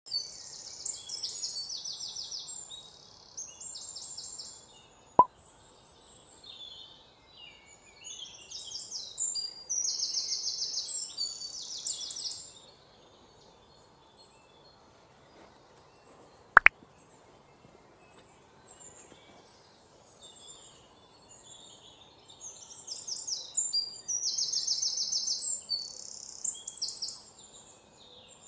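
Birds singing in the background: bouts of high, rapid chirping trills lasting a few seconds each, coming and going. Two sharp clicks stand out, one about five seconds in and a louder one near the middle.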